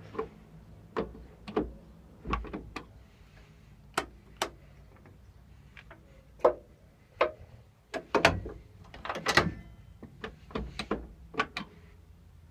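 Irregular clicks and knocks inside a locomotive cab, a dozen or so spread over several seconds with a short cluster of them past the middle, over a faint low hum.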